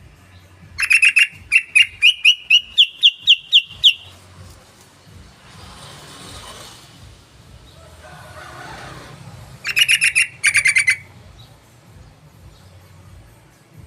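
Yellow-vented bulbul (trucukan) call: a fast run of bright chattering notes that climbs in pitch over about three seconds, then a shorter burst of two quick phrases near the end, played as a lure call to set other bulbuls singing.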